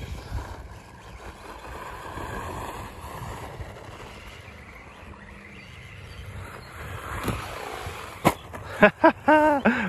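Electric RC stadium truck running over loose, dusty dirt: a faint motor whine rising and falling over a steady rush of tyre and dirt noise, with one sharp click about eight seconds in. A voice comes in near the end.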